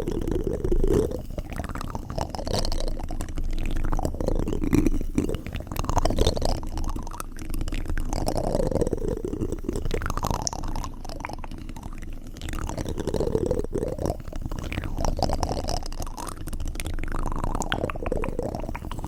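Continuous wet sounds made right at the microphone, steadily shifting up and down in pitch.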